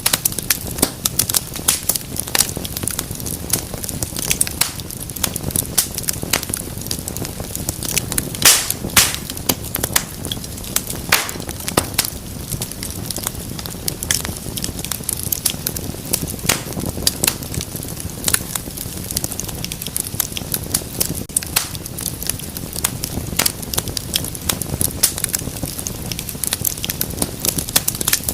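Wood fire crackling, with frequent irregular snaps and pops over a low, steady rumble of the flames; a few louder pops come about a third of the way in.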